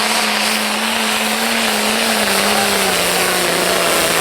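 Pro-stock pulling tractor's diesel engine running flat out under load as it drags the weight sled, a steady loud drone whose pitch sags slightly about three seconds in as the load builds.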